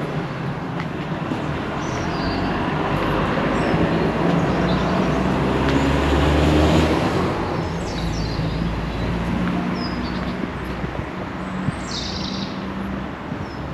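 A motor vehicle passing by on the street, its engine and tyre noise growing louder to a peak about halfway through and then fading away. Birds chirp briefly several times.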